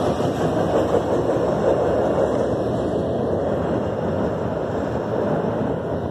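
CSX auto rack freight train rolling on after its last car, a steady rumble that slowly fades.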